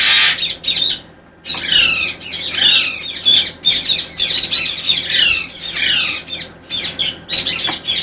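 Caged birds squawking harshly, a rapid, nearly unbroken run of short calls that each slide down in pitch. There is a brief burst of noise right at the start and a short lull about a second in.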